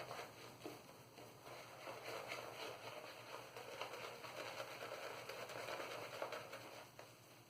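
22 mm synthetic shaving brush splayed and worked over the face through soap lather: a faint, continuous wet crackling made of many small ticks, dying away about seven seconds in.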